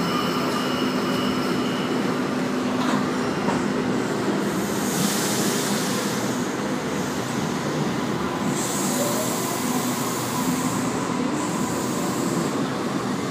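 Double-deck Sydney Trains electric suburban train (C set leading, K set at the rear) pulling out of the platform and running steadily past at close range. A humming tone fades out about four seconds in, and a louder hiss rises for a few seconds from about five seconds in.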